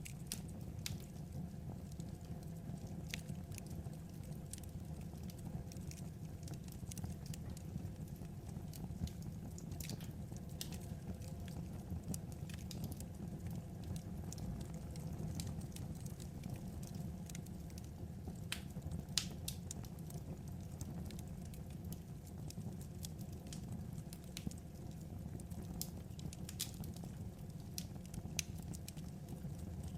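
Burning firewood crackling: irregular sharp pops and snaps, roughly one or two a second, over a steady low rush of the fire.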